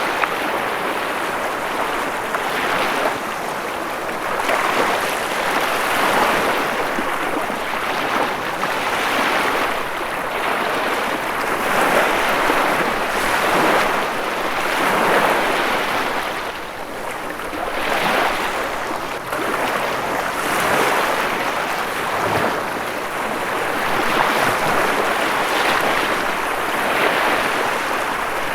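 Ocean waves breaking and washing on a shore, a continuous rushing that swells and eases every few seconds.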